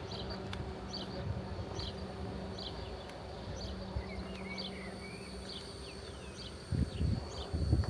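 A bee buzzing with a steady low hum that breaks off briefly about three seconds in. Short high bird chirps repeat about twice a second over it, and there are a couple of low thuds near the end.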